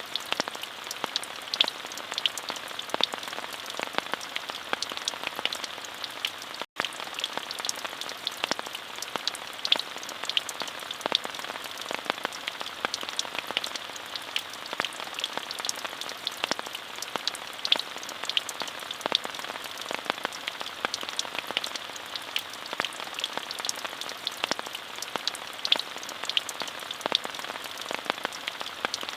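Steady rain: a dense patter of separate drops over an even hiss, with a momentary dropout about seven seconds in.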